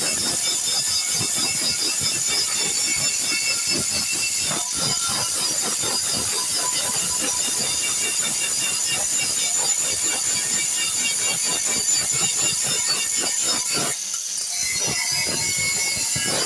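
Continuous mechanical clatter of dense, irregular knocks over a steady hiss, easing briefly near the end.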